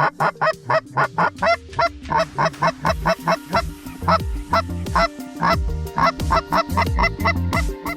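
Canada geese honking in a rapid, repeated series, the honks thinning out later on. Background music with a heavy bass comes in about three seconds in.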